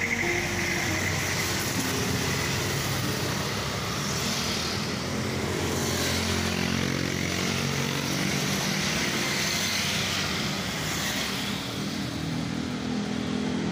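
Road traffic, with motorcycles and cars passing and swelling in and out every few seconds, under background music.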